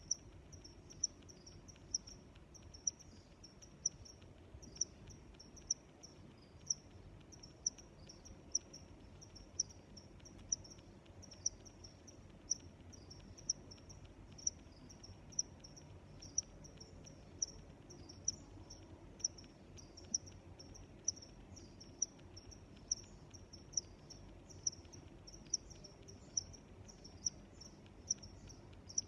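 Crickets chirping: one loud, high chirp about once a second, over a steady chorus of fainter chirps.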